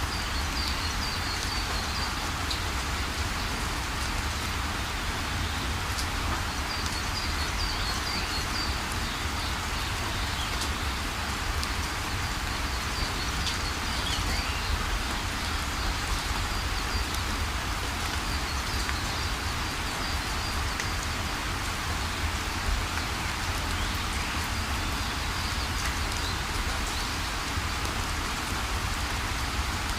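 Heavy rain falling steadily, with faint high chirps recurring every few seconds.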